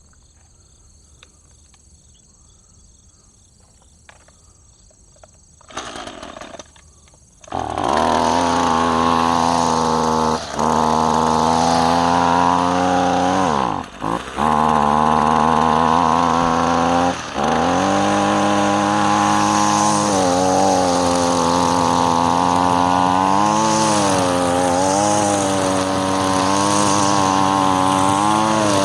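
Gas string trimmer (weed eater) being started: a short sputter about six seconds in, then the small two-stroke engine catches a moment later and runs at high revs. The engine note wavers with the throttle and drops off briefly three times.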